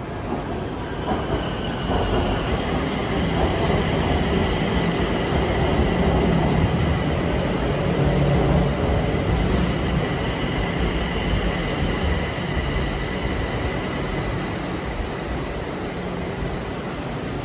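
BTS Skytrain electric train pulling into an elevated station: a rumble of wheels on the track with a steady high whine. It grows louder as the train comes alongside the platform and eases off near the end as it slows.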